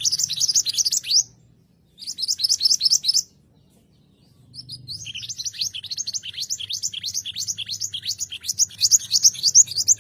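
Mantenan gunung songbird singing: three phrases of rapid, high, downward-slurred notes, about eight a second. The phrases start at the beginning, about two seconds in, and about four and a half seconds in, where the last one runs longer, with short pauses between them.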